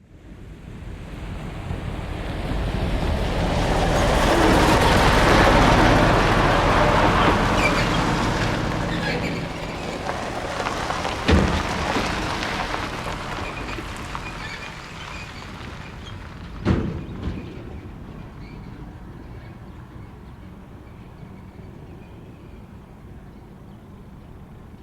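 TEM2 shunting diesel locomotive running past at close range. Its engine rumble swells over the first few seconds and then slowly fades. Two sharp knocks sound partway through, the second about five seconds after the first.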